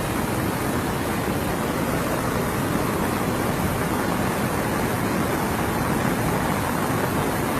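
Floodwater rushing over and around a bridge blocked by debris washed down from the hills: a steady, even roar of fast-flowing water.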